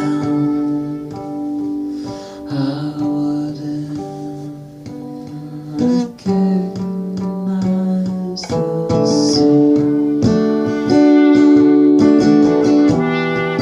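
Guitar music, strummed chords with held notes, in an instrumental stretch of a song.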